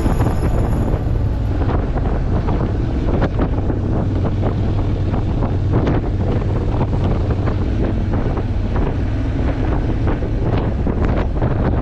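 Loud, steady wind buffeting on the microphone of a riding motorcycle, over the low steady drone of the engine and road at speed, with irregular gusts.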